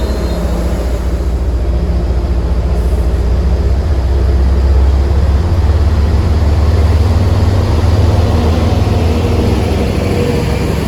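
Diesel locomotive engine running, a deep steady rumble that grows louder about four seconds in and holds.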